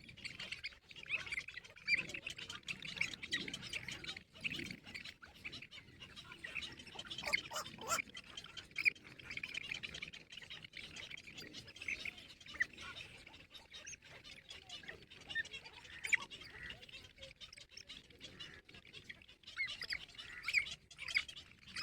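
Birds calling: many short, high chirps and squawks in quick, overlapping succession, with a few louder squawks standing out.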